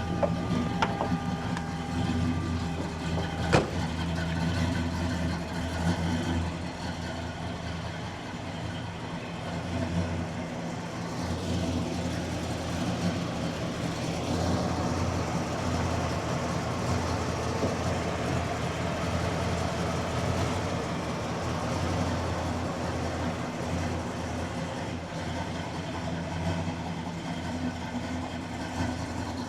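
1972 Oldsmobile Cutlass Supreme's Olds 350 V8 idling steadily just after a start, with one sharp click about three and a half seconds in.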